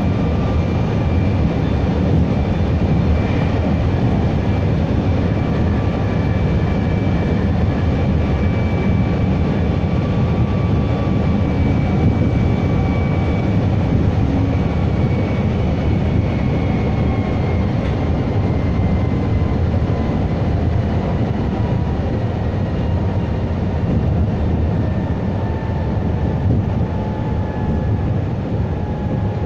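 Meitetsu 3150 series electric train running along the line: steady wheel and rail rumble with the thin whine of its traction motors. The whine drifts slowly lower in pitch through the second half.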